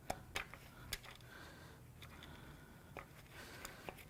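Faint, scattered sharp metallic clicks and taps of hand tools working at the cam gear of an engine, over a low steady hum.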